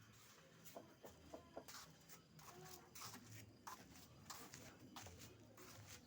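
Faint sounds of a quiet pet bird: scattered short rustles and clicks and a soft low note, with no full song.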